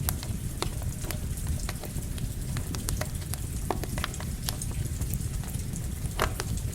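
Wood campfire crackling, with frequent sharp pops and snaps over a steady low rumble, mixed with the even hiss of rain.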